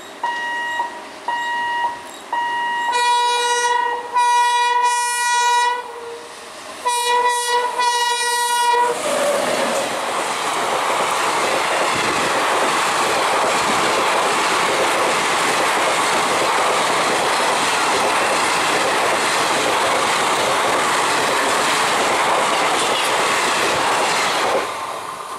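Express train approaching and passing through a level crossing. It sounds a string of short horn blasts, then the coaches run past with a steady rush and clatter of wheels on rail for about fifteen seconds. A few short repeated beeps come before the horn.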